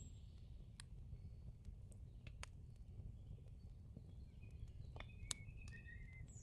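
Near silence over a low hum, with a few sparse sharp clicks and some short, faint bird-like chirps towards the end.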